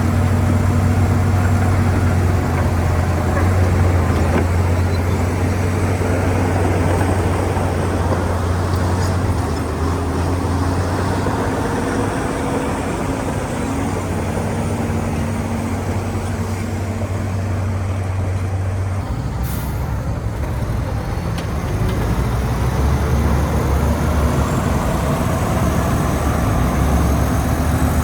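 Heavy diesel engine of earthmoving machinery running steadily, with a deep low drone. The engine note eases for a few seconds about two-thirds of the way in, and a single sharp click sounds there.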